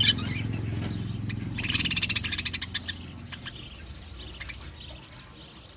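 Budgerigars chattering in their cage, a rapid scratchy burst about two seconds in, then scattered short clicks and chirps as the sound tapers off. A low steady hum lies beneath it at first and fades.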